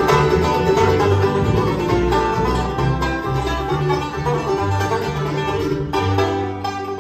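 Bluegrass band playing live: banjo picking leads over guitar, with a bass line moving underneath.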